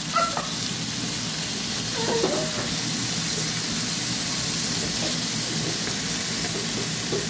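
Chicken pieces, chopped tomato and red onion sizzling in a non-stick wok as they are stirred with a wooden spatula: a steady frying hiss.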